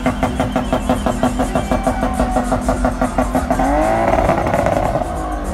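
Car engine running with an even, throbbing pulse of about five beats a second from the exhaust, then an engine revving up and back down near the end.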